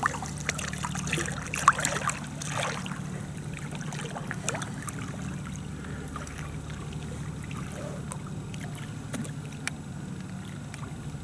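Steady low hum of a motorboat engine on the river, with small waves lapping gently at the bank and occasional light splashes and clicks, a few more of them in the first couple of seconds.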